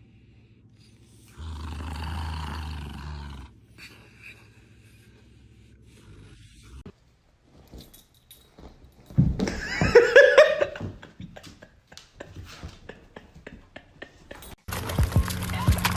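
A dog's loud pitched cry that rises and falls, lasting about two seconds, near the middle. It is surrounded by shorter clips: a stretch of noise early on and a busier sound with steady tones and knocks near the end.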